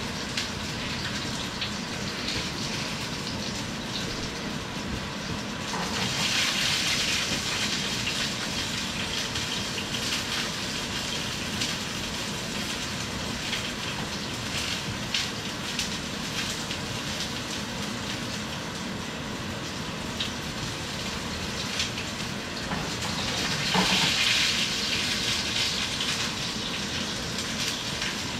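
Chicken sizzling in a pan on the stove: a steady hiss with scattered small pops. It swells louder twice, about six seconds in and again later on.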